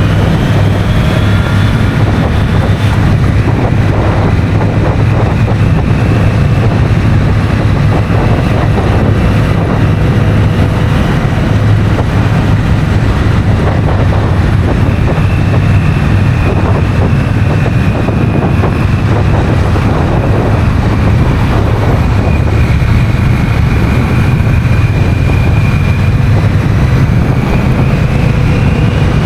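Honda CMX1100 Rebel's 1084 cc parallel-twin engine running at a steady pace while riding, with heavy wind noise on the microphone.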